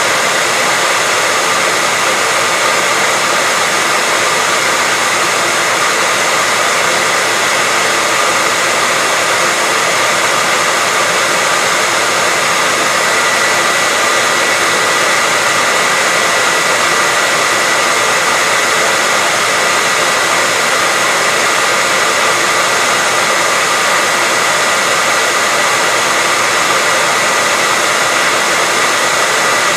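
Hair dryer running steadily: an even rushing hiss of blown air with a faint, steady high whine.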